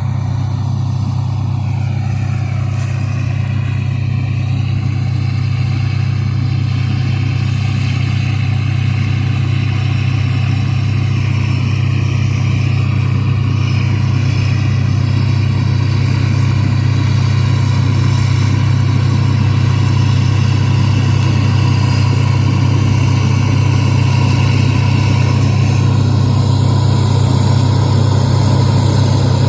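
Farm machine engine running steadily at a constant speed: a strong, even low hum with faint whining tones above it.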